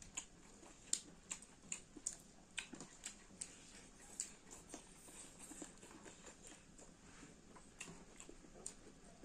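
Close-up eating sounds: chewing and biting, with many irregular sharp little clicks and crunches, several a second.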